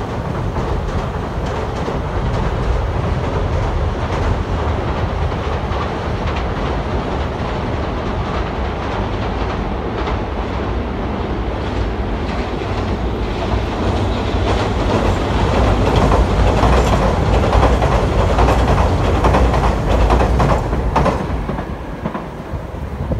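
Electric trains rumbling across a steel girder railway bridge, wheels clattering over the rail joints. The sound builds past the middle and fades near the end.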